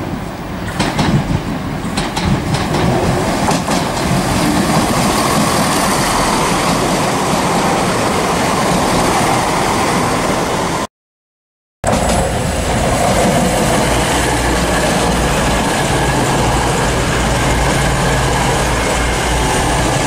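A passenger train running past close by, its wheels clicking over the rail joints. After a brief cut, an East Midlands Trains Class 222 Meridian diesel unit's engines run with a steady low hum.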